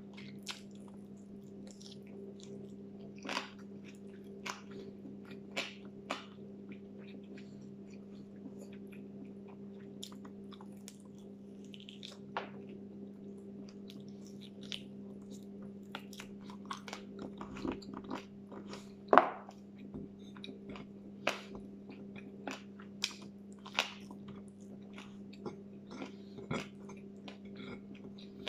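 Close-up eating sounds: a person chewing and biting meat off a bone, with scattered sharp mouth clicks, the loudest about two-thirds of the way through. A steady low hum runs underneath.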